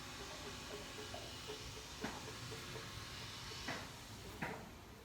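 Honeybees buzzing around an open hive, a steady low hum, with three soft knocks about two, three and a half and four and a half seconds in.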